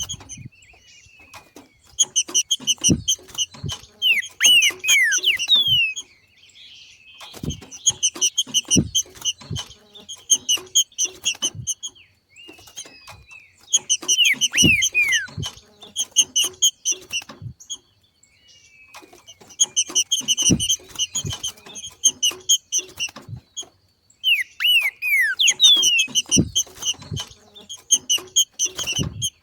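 Green-winged saltator (trinca-ferro) 'macheando': bouts of rapid, chattering pulsed notes mixed with short downward-sliding whistles, repeated about every five to six seconds, with low thumps among the bouts.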